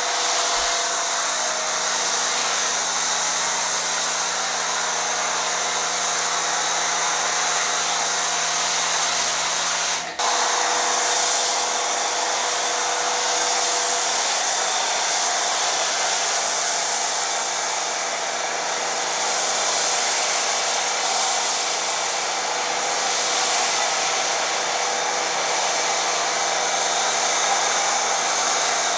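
Pressure washer running steadily while its foam cannon sprays snow foam onto a car: a continuous hiss of spray over a steady motor hum, with a brief break about ten seconds in.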